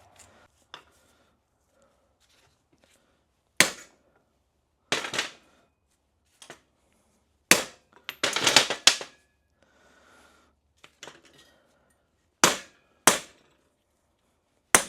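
Hammer blows on steel driving a new U-joint bearing cap into the front axle shaft's yoke. The sharp, ringing strikes come at uneven intervals, with a quick flurry of hits about eight seconds in.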